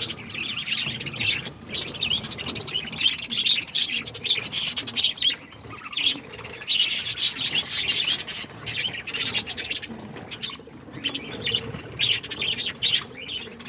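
A flock of budgerigars (pet parakeets) chattering, with a dense, continuous mix of chirps and warbles from many birds at once.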